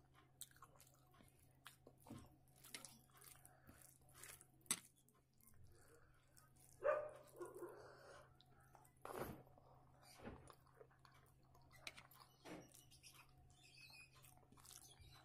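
Close-miked eating sounds of a person chewing rice by hand: soft chewing, wet mouth clicks and small smacks, with a sharp click about five seconds in and a louder smack about seven seconds in, over a faint steady low hum.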